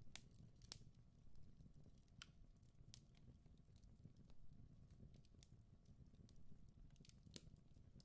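Faint fireplace fire crackling: irregular sharp pops and snaps over a soft low rumble.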